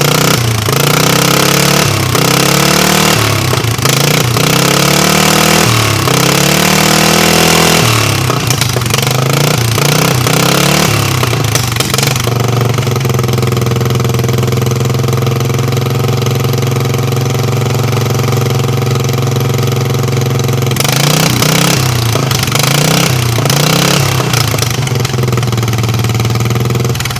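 A 12.5-horsepower lawn-tractor engine running loud and unmuffled through twin open stacks, its muffler removed. The throttle is blipped up and down repeatedly, then held at a steady speed for several seconds in the middle, then blipped again near the end.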